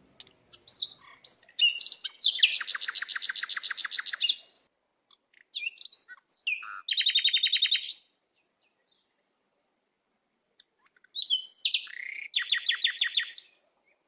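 A bird singing three phrases, each a few short chirps leading into a rapid, even trill, with pauses between them.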